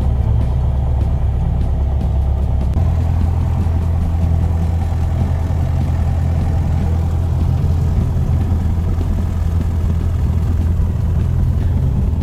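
Piper PA-28's single piston engine and propeller running steadily, the engine note stepping up slightly about three seconds in.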